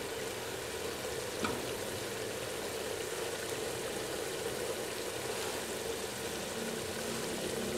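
Thick masala gravy bubbling and sizzling steadily in oil in a pot over a low flame. It has cooked down until the oil has separated. One light tap comes about a second and a half in.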